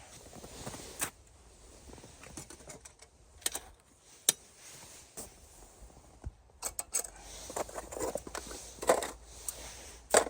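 Camping gear being handled, with scattered sharp clicks and knocks and a few light metallic clinks.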